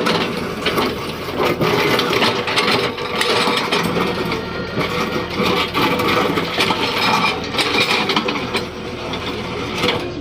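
Excavator engine running under load, with irregular clattering and scraping as its bucket works loose road material.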